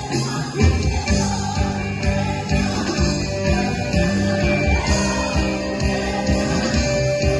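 Live band music with guitar, bass and a steady beat, and a woman singing over it.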